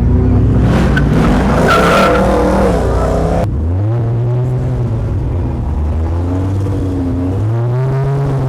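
Car engine revving hard with tyres squealing as it spins donuts; the tyre noise cuts off suddenly about three and a half seconds in, and the engine keeps revving up and down.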